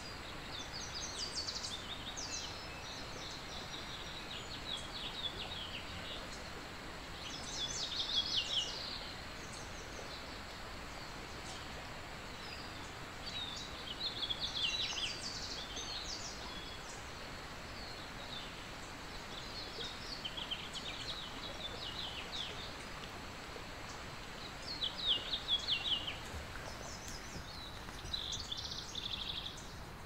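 Birds singing in the open: short, quick chirping phrases every few seconds over a steady background hiss, the loudest phrases about eight seconds in, around fourteen seconds, and around twenty-five seconds.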